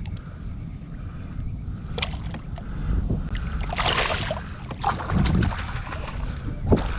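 Water sloshing and splashing at the side of a kayak as a caught snook is let back into the water, with a short louder splash about four seconds in and a few knocks on the hull. Wind buffets the microphone throughout.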